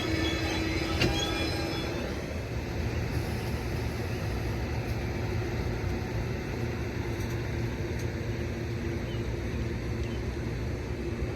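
Passing train's wheels squealing on the rail, dying away about two seconds in and leaving a steady low rumble of cars rolling by that slowly fades.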